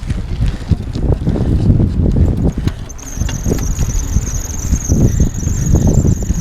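Bicycle brakes squealing, a steady high-pitched whine that starts about halfway through and is held, over the rumble and knocks of tyres and the bike on a dirt trail.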